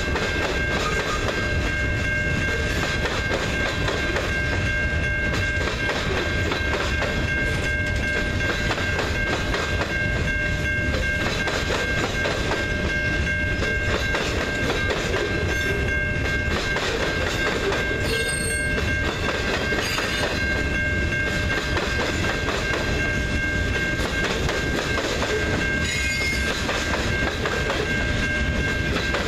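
Freight train cars rolling past at speed, wheels clacking over rail joints, with a steady high-pitched squeal over the rumble.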